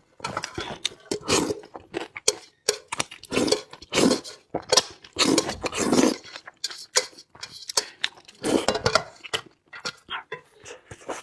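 A person eating: wet chewing and lip smacking, broken by quick crunches and clicks in an uneven run with short pauses.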